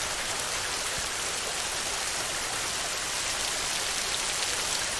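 Steady heavy rain falling on a tin roof, a dense even patter of drops.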